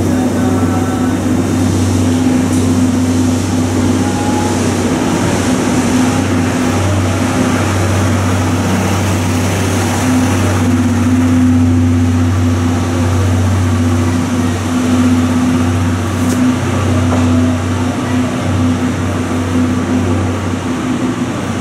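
Passenger coaches of a steam-hauled train rolling past a station platform and away, over a steady low hum.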